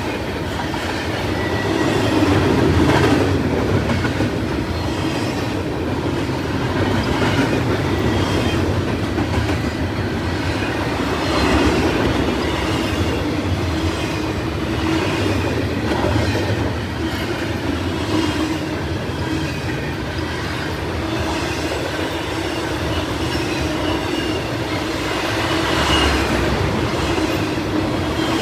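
A freight train's cars rolling steadily past, a continuous rumble of steel wheels on rail with a few clacks over rail joints and a faint high wheel squeal.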